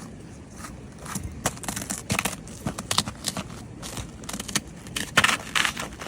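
Footsteps crunching over frozen ground: irregular crunchy steps, a few a second, loudest about five seconds in.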